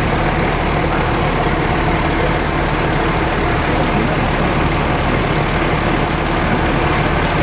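Fire truck engine idling steadily, a constant low hum with no change in pitch or level.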